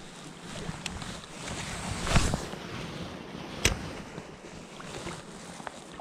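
Stream water running, with wind on the microphone. A brief rushing swell comes about two seconds in, and a single sharp click a second and a half later.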